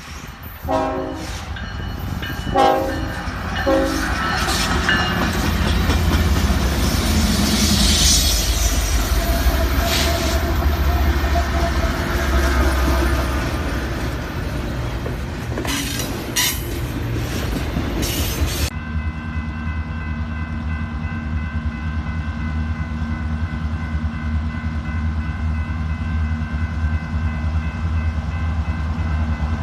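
Diesel freight locomotive horn sounding three times in the first few seconds, then the train passing close with loud engine rumble and wheel-on-rail clatter. About 19 s in the sound changes abruptly to a steady engine drone with constant tones.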